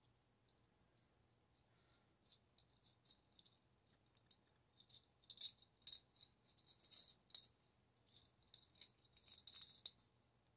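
Faint, irregular clicking and rattling of small microwave parts being handled and pried apart, growing busier about halfway through.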